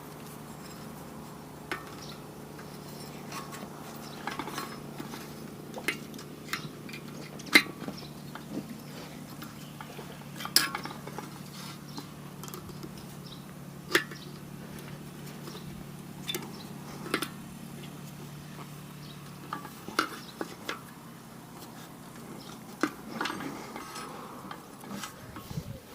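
Irregular sharp metallic clinks and taps, about one every second or two, from metal parts and hand tools being handled while the rotary mower's knives are swapped. A faint steady hum sits underneath and stops near the end.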